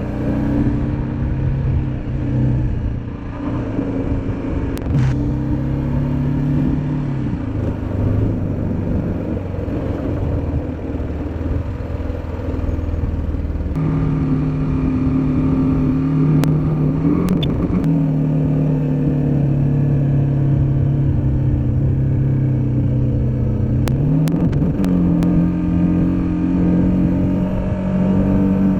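Motorcycle engine running while riding. Its pitch drops about a quarter of the way in, climbs again around the middle, and twice dips briefly and then rises, as with throttle and gear changes. A few short clicks are heard.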